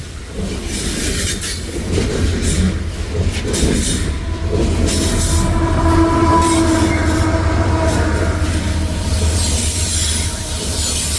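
CP Rail coal train rolling past with a steady low rumble of wagons and wheels. About halfway through, a pitched squeal of steel wheels on the rail holds for around three seconds.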